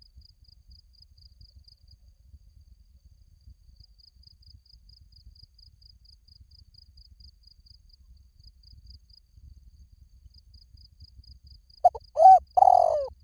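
An insect chirps in a faint, steady, high pulsed trill of about five pulses a second. About 12 seconds in, a spotted dove gives its loud cooing call of three notes.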